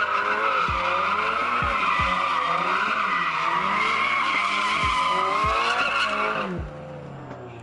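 A car drifting: its tyres squeal in one long, wavering screech while the engine revs rise and fall underneath. The squeal stops about six and a half seconds in.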